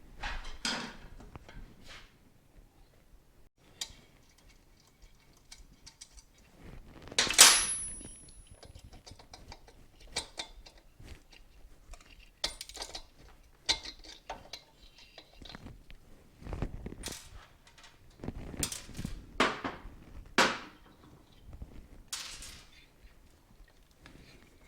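Hand tools and metal parts clinking and knocking during motorcycle disassembly, in scattered separate strikes. The loudest is a sharp metallic clank about seven seconds in that rings briefly, with a cluster of further knocks a few seconds later.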